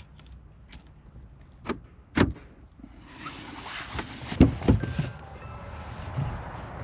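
Two sharp clicks, then from about three seconds in a steady rush of highway traffic noise, with two heavy thumps soon after.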